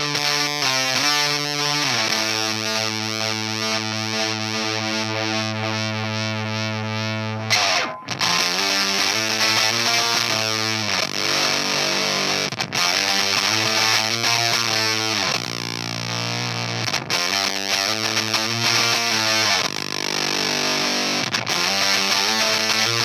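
Baritone electric guitar played through an EarthQuaker Devices Erupter fuzz pedal. A quick run of notes gives way to a chord held for several seconds. After a brief break about eight seconds in, the riffing resumes with repeated chords and short pauses.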